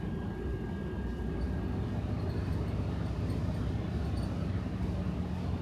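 Steady low rumble of a bus's engine and road noise, heard from inside the cabin while it drives.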